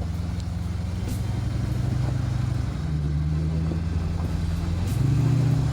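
2003 Land Rover Discovery 2's engine running at low revs as it crawls slowly over rocks, steady throughout with a brief rise in revs near the end.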